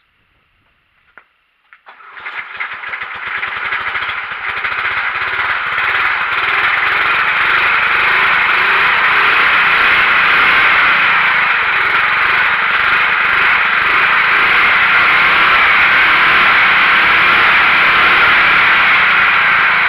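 Small air-cooled engine of a Simplicity garden tractor, just flooded, turning over about two seconds in after a couple of clicks. It catches and runs, climbing over several seconds to a steady fast run.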